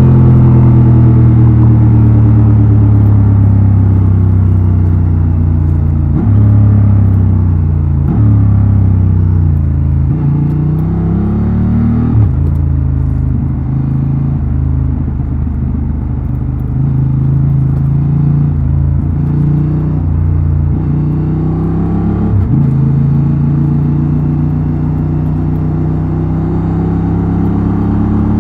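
2024 Honda Transalp XL750's parallel-twin engine and exhaust under way on the road, the engine note falling and rising with the revs. It is broken by quick gear changes about six, eight, twelve and twenty-two seconds in.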